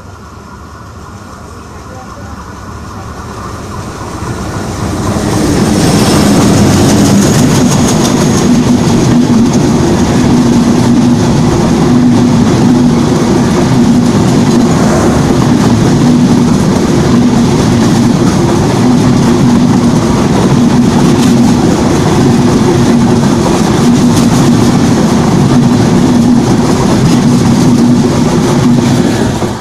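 Bangladesh Railway passenger train, the Ekota Express, approaching and running past close by. Its carriages rumble and clatter on the rails, growing louder over the first six seconds and then staying loud and steady. The noise drops suddenly at the end.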